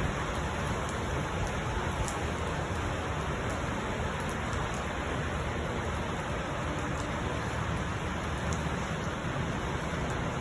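Steady rain falling in a sun shower: an even hiss with scattered faint drop ticks.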